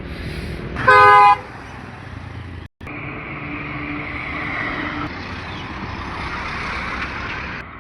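A vehicle horn sounds once, briefly, about a second in, over road noise. After a sudden break, a steady rush of passing traffic and road noise.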